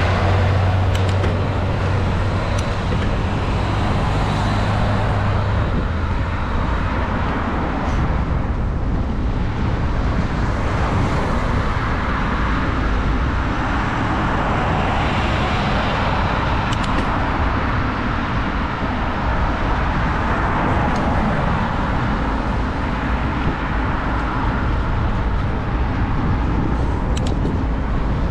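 Steady road traffic noise with cars going by, heard from a moving bicycle. A low engine hum stands out for the first six seconds or so.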